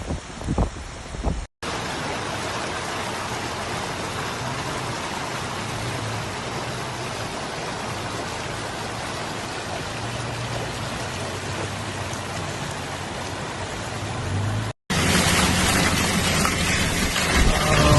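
Heavy rain falling, a steady dense hiss. Wind buffets the microphone in the first second or so, and the hiss gets louder after a cut near the end.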